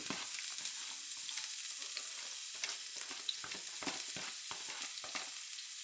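Chopped garlic and ginger sizzling in hot oil in a pan on medium heat, with a utensil stirring them in short, irregular clicks and scrapes.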